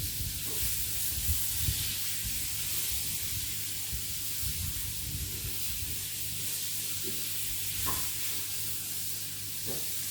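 Meat patties sizzling as they fry in a pan, a steady hiss, with a few light knocks and scrapes in the first couple of seconds and again around the middle as they are turned.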